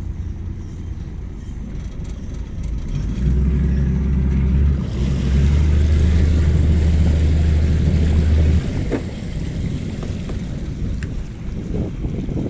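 Boat's motor running with wind buffeting the microphone. The rumble and hiss grow louder from about 3 s in and drop back at about 8.5 s.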